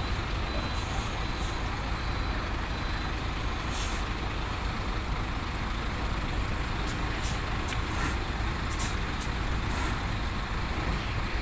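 Heavy diesel engine of a HOWO 10-wheel dump truck running steadily, with several short hisses of air from its air brakes.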